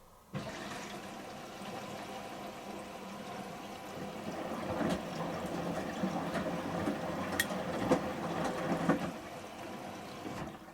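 Samsung Series 5+ AI washing machine taking in water for its final rinse: a steady rush of water into the drum that starts abruptly about half a second in and drops away near the end, with a few small clicks and splashes.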